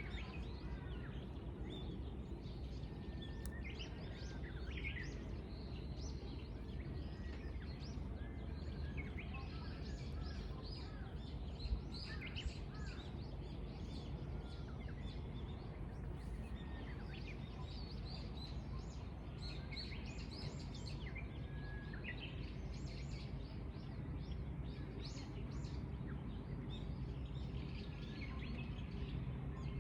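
Several small birds chirping and calling in short, scattered notes over a steady low rumble of outdoor ambience. A single sharp click about twelve seconds in.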